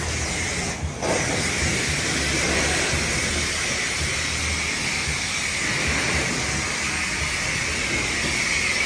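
High-pressure water spraying from a car-wash wand onto a car, a steady hiss that cuts out briefly about a second in.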